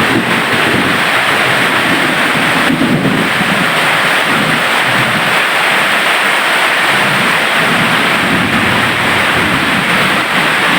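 Loud, steady rush of water, with uneven low rumbling running under it.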